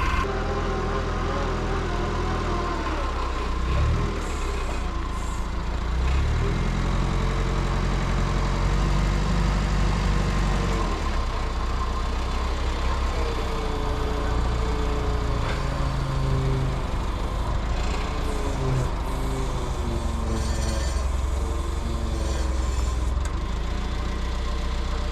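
Diesel engine of heavy equipment running under changing load, its engine speed stepping up and down several times.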